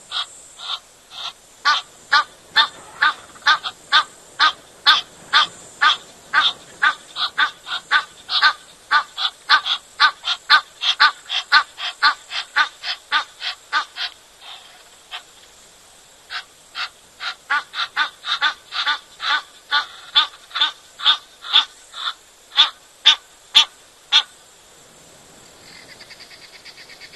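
A bird calling over and over in a fast series of short, sharp honking notes, about three a second, with a brief break about halfway. The calls stop a few seconds before the end.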